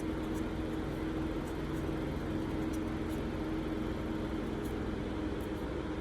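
Steady background hum and hiss with a constant low tone, like a running fan or other appliance. A few faint, short ticks sound over it.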